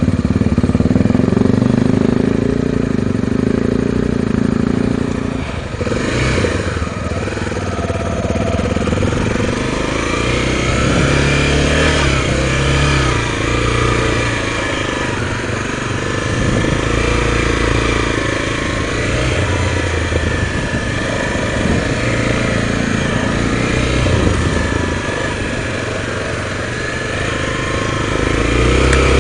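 Honda Tornado 250 single-cylinder dirt bike engine running under way. Its revs rise and fall with the throttle after about five seconds of steady running.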